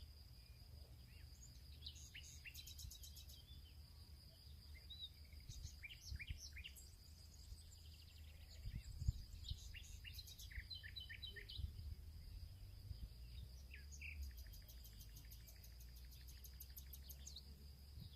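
Small birds chirping in a field, with short scattered calls and two fast ticking trills, the longer one near the end. Under them run a steady high-pitched hum and a faint low rumble, with a few louder knocks about halfway through.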